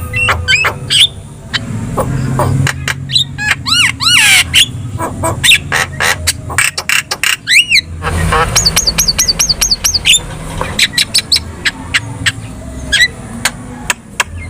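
Javan myna (jalak kebo) singing a busy, varied song of sharp clicks and squawks mixed with arched whistled notes. About eight seconds in comes a quick run of about six high repeated whistles.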